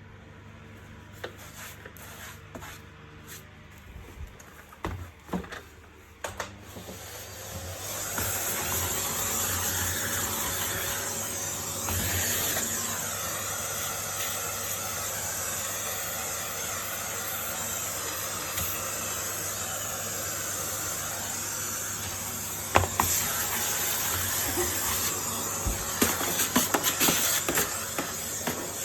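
Clicks and knocks from plastic parts being handled, then the Electrolux Ease C4 bagless vacuum cleaner's motor starts about seven seconds in and runs steadily with a strong airflow hiss. Sharp knocks come over the running motor about 23 s in and several times near the end.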